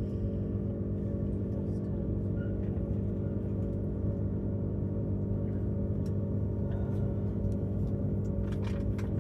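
Steady running noise inside a Tilt Train carriage as the train travels: an even low hum and drone made of several held tones, with no change in level.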